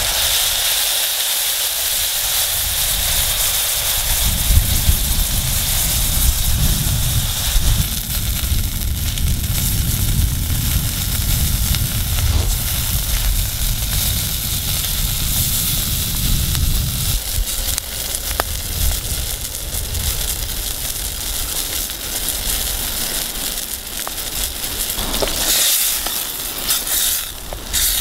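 Onions and sauce sizzling in a steel pot over a campfire, a steady hiss, with a low rumble through the first half. A spoon scrapes and stirs the pot near the end.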